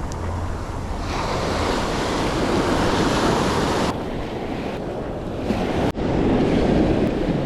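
Small surf waves breaking and washing up the sand, swelling about a second in and again near the end, with wind on the microphone.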